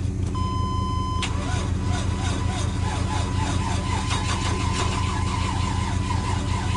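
A Chevy Tahoe's gasoline V8 being cranked by its starter, turning over in an even, rapid rhythm without catching, after a steady electronic warning tone in the first second. The engine is cranking but not starting: a no-start that the owner is tracing to fuel or spark.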